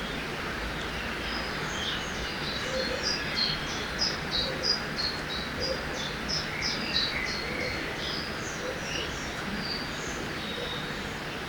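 Steady rush of a river under birdsong: a quick run of short, high chirps starts about two seconds in, and from about seven and a half seconds only scattered notes remain.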